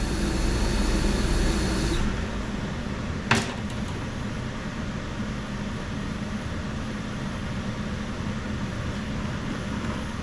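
Steady rushing hiss of a torch flame heating a rusted exhaust-manifold bolt head. The noise drops in level about two seconds in, and a single sharp metallic click comes about a second later.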